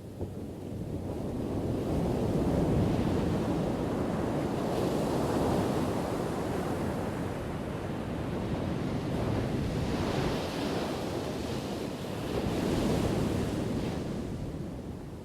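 Ocean surf: waves crashing and washing in as a rushing noise that swells and ebbs several times, easing off near the end.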